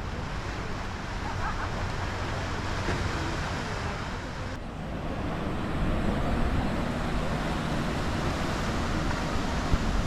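Steady outdoor seaside ambience: a continuous rushing noise of surf, wind and distant traffic, with a brief dip and a change in the mix about halfway through.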